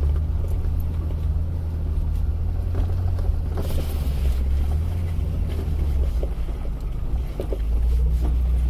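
Jeep's engine droning steadily, heard from inside the cab while driving a snowy trail, with scattered knocks and rattles from the body. The engine note eases off and then picks up again near the end.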